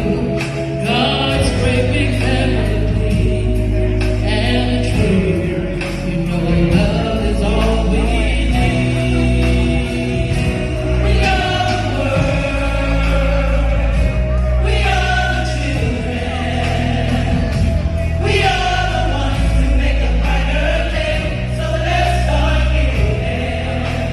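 Gospel choir singing with instrumental accompaniment over a sustained low bass line.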